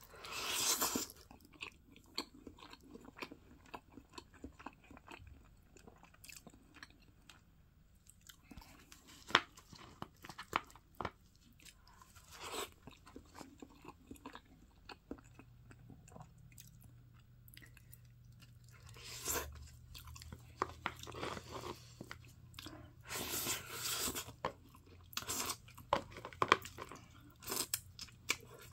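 A person biting and chewing grilled spicy pork backbone meat close to the microphone: irregular bites and chewing sounds, heaviest near the start and again toward the end.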